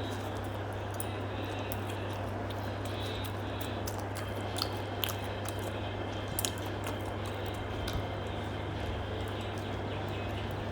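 A person chewing food, with a few small sharp clicks about halfway through, over a steady low hum and hiss.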